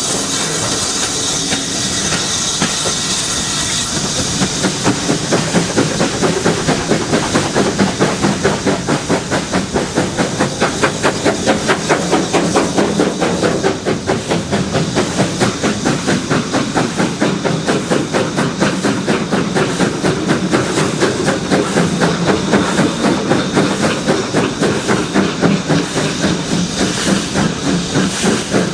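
Steam locomotive hissing steam, then its exhaust beats start about four seconds in and run on in a steady, rapid rhythm as it works.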